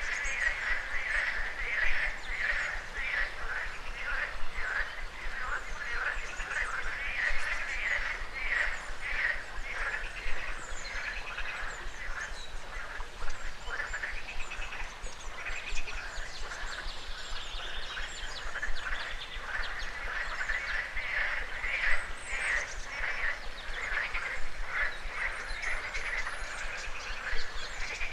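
A chorus of frogs croaking in dense, rapidly repeated calls that overlap throughout, with birds chirping higher above them.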